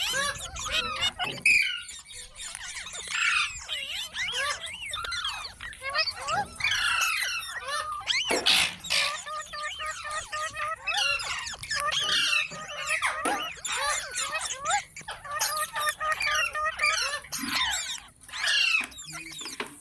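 Pet green parrot calling: a busy run of quick chirps and squeaks sliding up and down in pitch, with a louder harsh squawk about eight seconds in.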